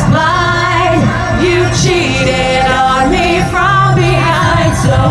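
Female lead vocal singing live over a eurodance backing track, with sustained, wavering sung notes above a steady bass.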